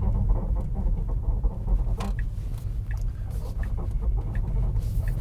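Front control arms of a Tesla Model 3 squeaking in short, repeated chirps, roughly once a second, over the low rumble of the car driving on a rough road. This is the known control-arm squeak of the Model 3 and Model Y.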